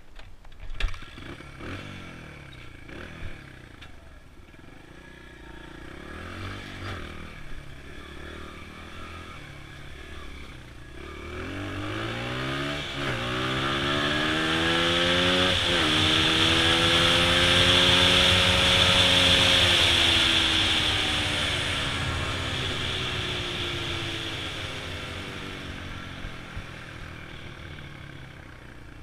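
Honda XR100 dirt bike's single-cylinder four-stroke engine running at low revs, then revving up through the gears with two shifts where the pitch drops, holding high revs and then slowly winding down. A few knocks sound in the first few seconds.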